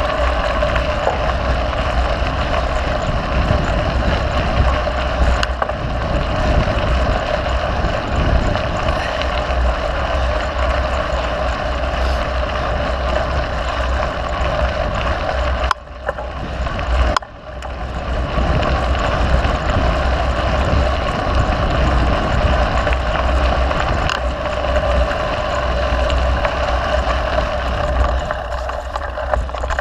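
Steady wind buffeting the microphone of a camera on a mountain bike, with the rumble of the bike rolling along a dirt trail; the noise drops out briefly twice about halfway through.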